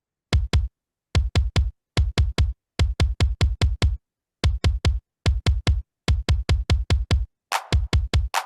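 Programmed hip-hop drum-machine pattern looping in FL Studio: deep kick hits in quick clusters of two to four with short gaps between. About three quarters of the way through, a brighter, hissier percussion layer joins the kicks.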